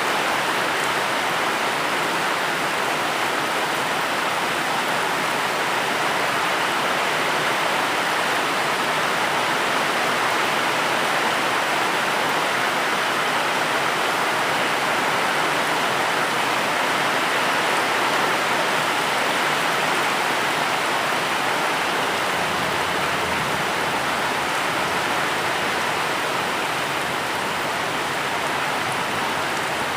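Steady heavy rain, a dense even hiss with no separate drops standing out.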